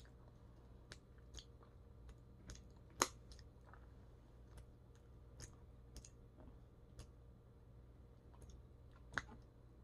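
Faint mouth clicks and smacks of someone chewing chicken wing meat off the bone, with a sharper click about three seconds in and another near the end.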